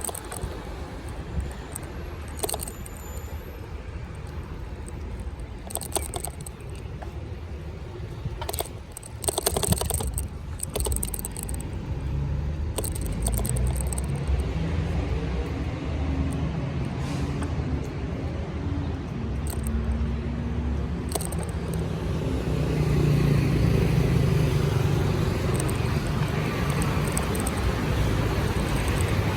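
Street traffic and road rumble heard from a bicycle-mounted camera, with scattered rattles and clicks in the first half. A motor vehicle's engine hum grows louder in the second half.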